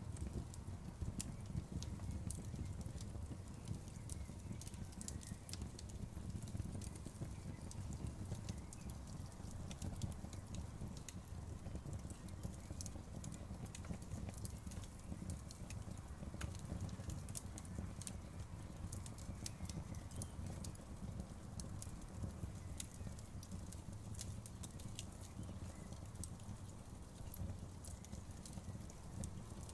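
Wood campfire crackling, with frequent sharp pops and snaps over a low steady rumble.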